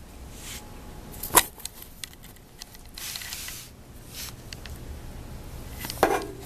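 Handling noises: a sharp knock about a second in, a brief rustle midway, and another knock with a short ring near the end.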